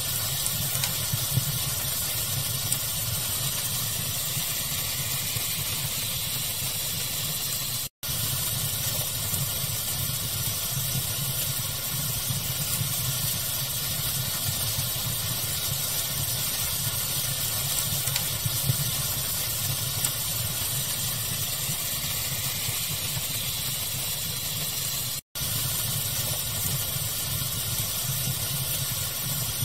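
Steady pink-noise hiss with a low rumble under it and a wood fire crackling in small, scattered pops. The sound cuts out for an instant twice, about eight seconds in and again near the end.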